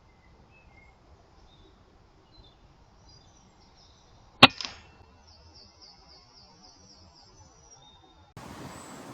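A single shot from an Air Arms S510 .22 pre-charged air rifle about halfway through: one sharp crack followed quickly by a shorter knock, over faint bird chirps. Near the end the background changes abruptly to a steady hiss.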